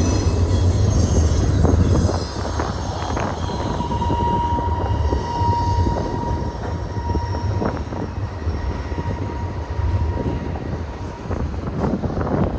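Double-stack container cars of a BNSF freight train rolling past, the wheels rumbling steadily on the rails. Thin wheel squeals come in high near the start, and a steadier squealing tone runs through the middle.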